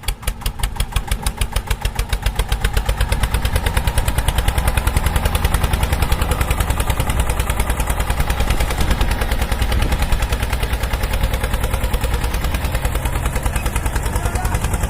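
Small engine of a miniature tractor running with a steady, rapid chugging beat that speeds up over the first few seconds, then holds steady.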